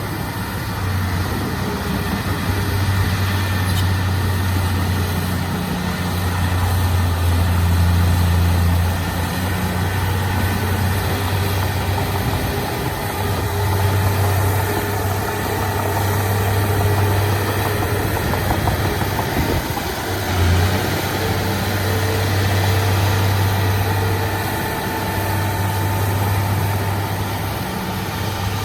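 Heavy diesel earthmoving machinery running continuously, its low engine drone swelling and easing every few seconds as the load changes.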